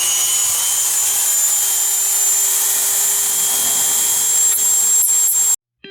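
Dremel 3000 rotary tool fitted with a cut-off wheel running at steady high speed, a high-pitched whine over a hiss, which cuts off suddenly near the end.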